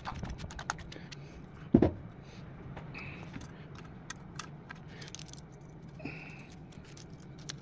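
Small metallic clicks and scrapes of hands working on a chainsaw, refitting a chain that had come off the bar, with one louder knock about two seconds in. A tractor engine idles steadily underneath.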